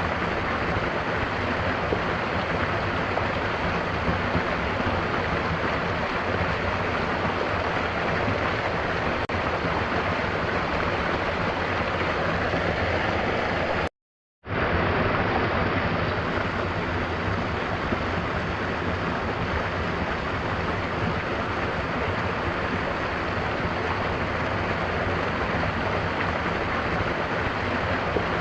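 Mountain waterfall rushing steadily, a dense even roar of falling water. About halfway through it cuts out to silence for half a second, then comes straight back.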